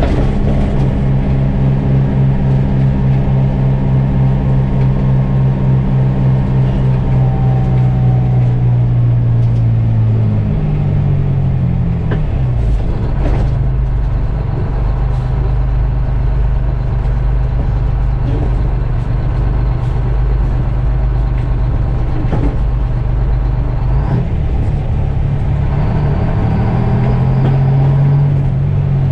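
GMC Crackerbox semi's two-stroke Detroit Diesel engine running under way, loud and steady. Its note drops about ten seconds in as the revs fall, holds, then climbs again near the end.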